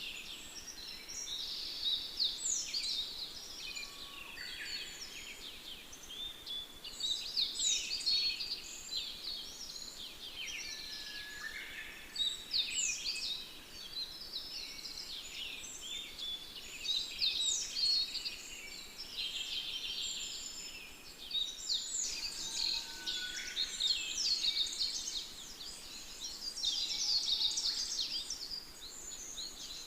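Birdsong ambience: several small birds chirping and trilling over one another without pause, with one high falling note repeated about every five seconds.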